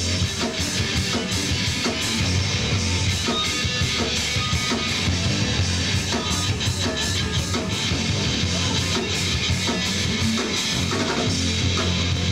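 Live rock band playing an instrumental passage: distorted electric guitar over a steady drum kit beat, with no singing.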